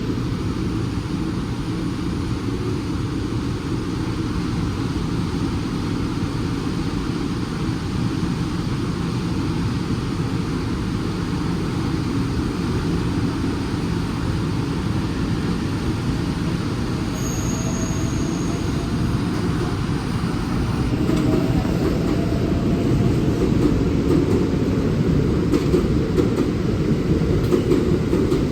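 Electric train rumbling at a station platform, a steady low rumble that grows a little louder over the last third, with a faint rising whine a little past halfway.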